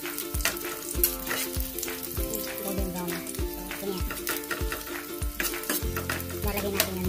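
Sliced onions and garlic sizzling in oil in a nonstick frying pan, stirred with a spatula that clicks against the pan.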